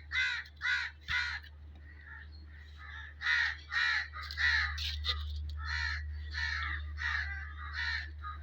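Crows cawing: a quick run of four harsh caws, then after a short pause a longer, denser series of caws, over a steady low hum.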